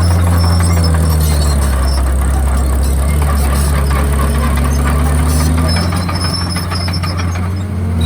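Komatsu D51PX bulldozer's diesel engine running under load, its pitch sagging and recovering as it pushes, with track clatter and squeal over it. The engine eases off about six seconds in and picks up again at the end.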